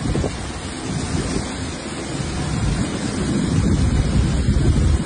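Wind buffeting the microphone: a loud, rushing noise with low rumbling gusts, growing louder near the end.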